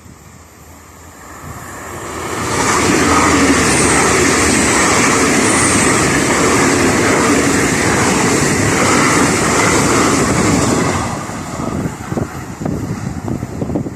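A train passes close by on the line. Its noise builds over about two seconds, stays loud and steady for about eight seconds, then dies away, leaving wind gusting on the microphone.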